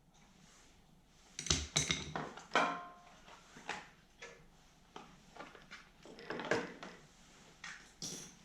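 Metal hand tools and parts clinking and clattering in irregular knocks, a few ringing briefly, as they are handled and set down; no engine running.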